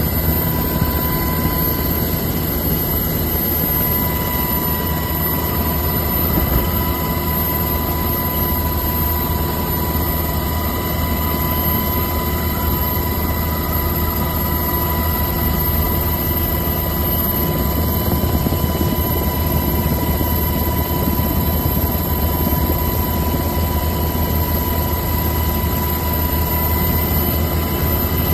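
Helicopter running steadily: a constant whine over a low rumble, unchanging throughout.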